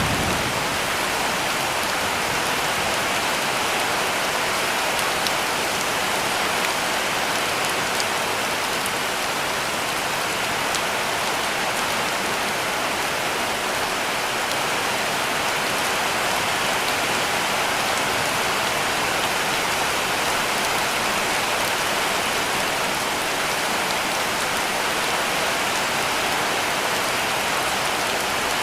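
Heavy rain falling steadily on a cabin roof: a dense, even hiss with faint scattered ticks of single drops.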